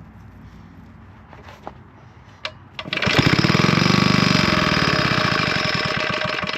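Villiers Mark 9 stationary petrol engine pulled over by a cord, with a click as it is pulled. It fires about three seconds in, running fast with a rapid, even beat for about three and a half seconds, then slows and dies. It was started without choke.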